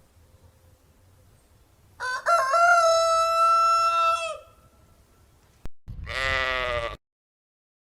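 A rooster crowing once, a long held call of about two seconds. After a cut, a short bleat from a sheep or goat, followed by dead silence.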